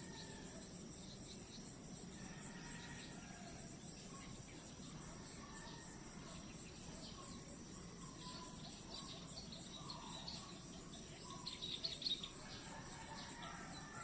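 Nature ambience: insects trill steadily at a high pitch, with scattered bird chirps and calls over them. About twelve seconds in there is a brief, louder flurry of chirps.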